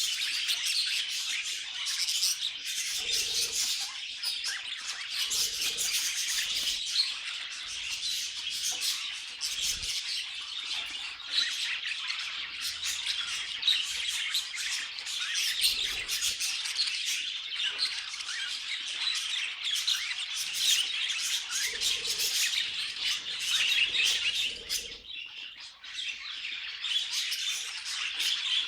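Several budgerigars chattering and warbling together, a continuous stream of rapid chirps with occasional louder squawks, and a brief lull about three-quarters of the way through.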